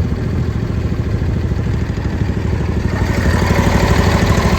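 John Deere LA145 riding mower's engine running steadily, growing louder and brighter about three seconds in.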